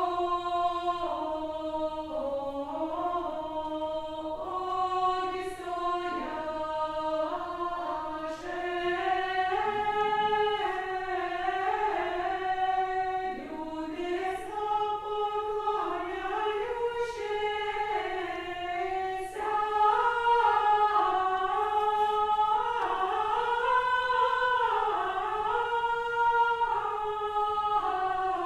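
A choir singing Old Russian music a cappella, the voices moving together in a slow stepwise melody without a break.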